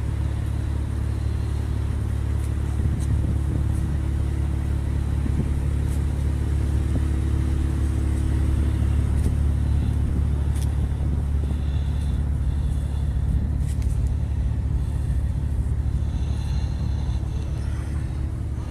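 A large engine running steadily, a low rumble with a deep hum.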